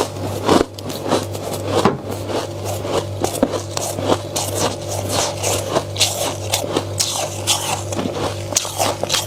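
Flaky freezer frost being scraped off in many short, irregular strokes, over a steady low hum.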